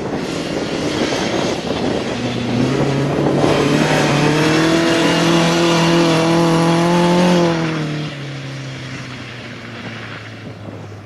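Historic rally car engine at high revs, growing louder over the first few seconds and holding a loud, steady note as it drives past, then dropping away sharply about eight seconds in to a quieter, distant engine sound.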